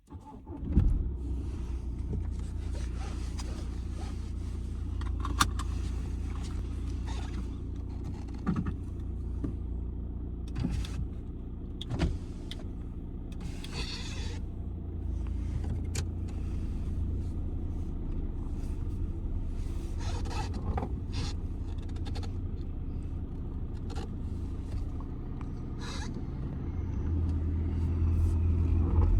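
Audi 2.0 TDI four-cylinder diesel engine idling with a steady low hum, with scattered clicks and knocks over it. The hum grows louder near the end.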